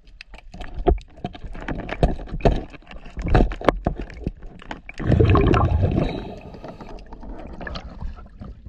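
Water gurgling around a working diver, with scattered clicks and knocks and a loud gush of bubbling water about five seconds in.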